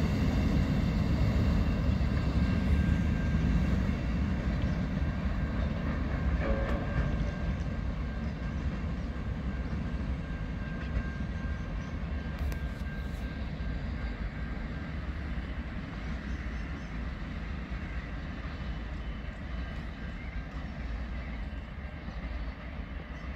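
A CBH grain train's hopper wagons rolling away along the track: a low rumble of wheels on rail that fades steadily as the train recedes, with a faint thin steady tone above it for much of the time.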